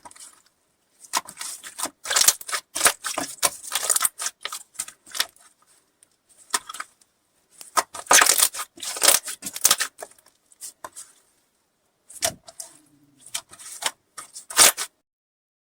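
Slime being squeezed and pressed by hand, crackling and popping in three spells of dense clicks with short pauses between.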